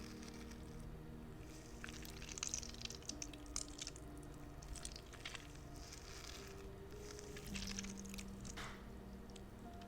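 Squishy spider fidget toy being squeezed and worked by hand, making irregular sticky squishing crackles, busiest around two to three and a half seconds in and again near the end. Soft held music tones run underneath.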